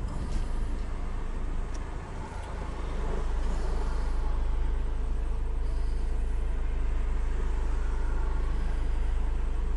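Car engine idling as a steady low hum, with a few faint clicks in the first two seconds. The hum evens out about three seconds in.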